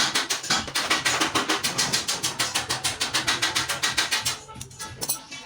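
Fast, regular scraping or rubbing strokes on a hard surface, about seven a second, stopping about four seconds in.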